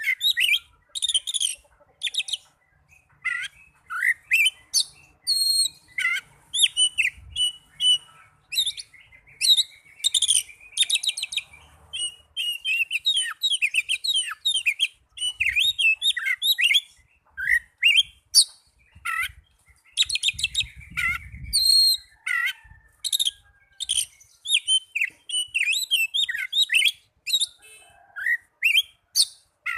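Oriental magpie-robin (kacer) singing: a fast, varied run of whistles, chirps and trills, phrase after phrase with short breaks.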